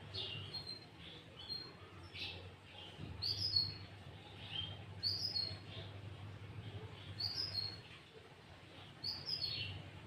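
Sooty-headed bulbul calling loudly, giving short, clear chirping phrases repeated every second or two, over a faint steady low hum.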